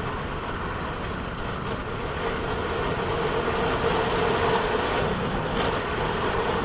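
Steady road and engine noise of a moving vehicle, with a faint steady hum and two short hisses about five seconds in.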